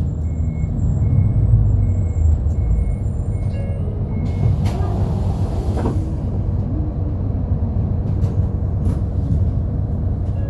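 Inside a route bus: a steady low engine and road rumble. A short high beep repeats a little under twice a second and stops about four seconds in, followed by a brief hiss.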